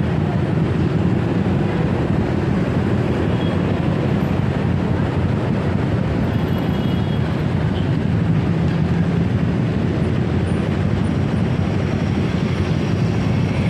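Steady low rumble of a motorcycle ride, engine and road noise with wind on the microphone, unbroken throughout.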